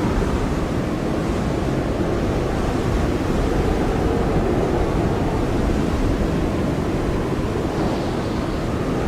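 Blizzard wind blowing hard and steadily, with a low howl that wavers slowly up and down in pitch.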